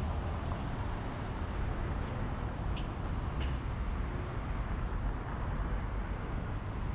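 Steady downtown street traffic noise with a deep low rumble, and a couple of faint short clicks about three seconds in.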